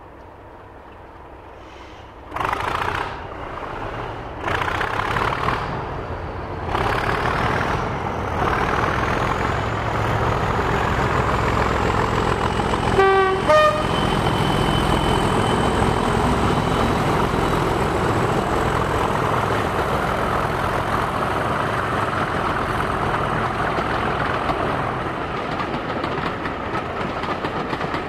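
Real British Rail Class 37 diesel locomotive pulling away. The engine comes up in four surges as power is applied, with a whine rising over several seconds, then settles into steady running under load. About 13 seconds in, the locomotive sounds a short two-note horn.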